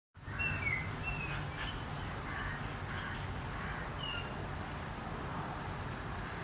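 Outdoor ambience that starts abruptly: several short bird chirps, most of them in the first second, over a steady background hiss and a low rumble.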